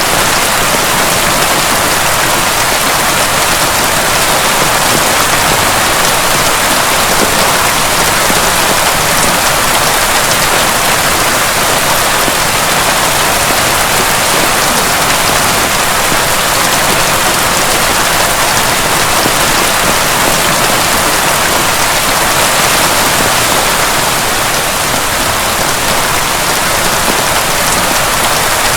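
Heavy rain pouring steadily, a dense, even hiss of drops with no thunder.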